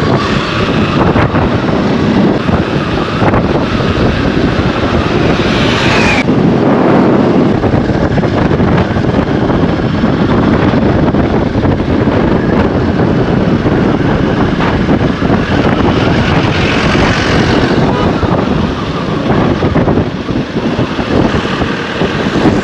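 Motorbike running on the move, its engine under a loud, steady rush of wind buffeting the microphone. A brief rising tone cuts off suddenly about six seconds in.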